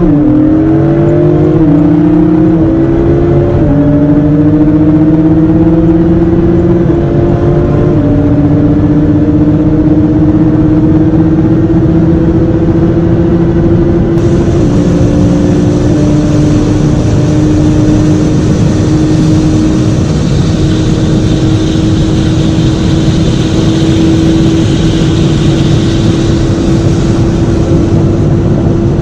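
Sports car engine at full throttle in a flat-out run to top speed. The pitch climbs through each gear and drops at several quick upshifts in the first half, then holds a long pull at high revs. A rushing noise builds in the second half.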